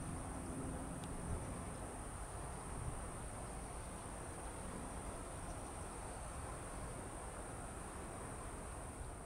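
Steady high-pitched insect chorus, an unbroken shrill hum, over a low, even background rumble.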